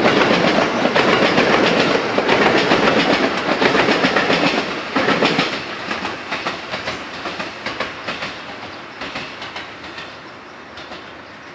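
Electric multiple-unit train of two coupled sets running past close by and away down the line, its wheels clacking rapidly over the rail joints. It is loud at first and fades steadily as it recedes.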